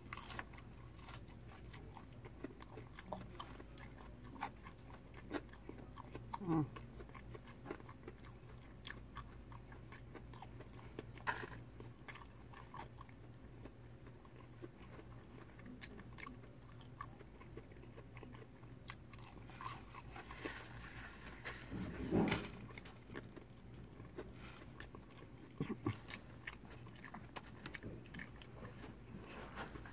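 Close chewing and crunching of crispy fried catfish: irregular crisp bites and crackles of the fried coating with the wet sounds of mastication, over a steady low hum. One louder moment comes about two-thirds of the way through.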